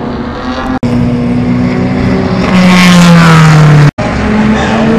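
Classic racing car engines running at speed; one car passes close about two and a half seconds in, its engine note loudest and falling in pitch as it goes by. The sound breaks off abruptly twice, briefly.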